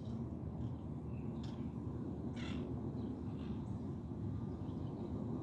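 Parrots calling from a tree: a few short, scattered squawks, the loudest about two and a half seconds in, over a steady low background noise.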